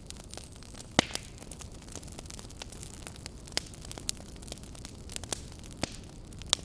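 Campfire burning: a steady low rumble of flames with scattered crackles and pops of the burning wood, a sharp pop about a second in and another near the end.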